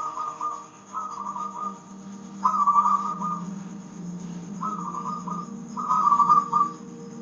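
Zebra dove (perkutut) cooing: five short, trilling phrases about a second or two apart, over a soft, sustained instrumental drone.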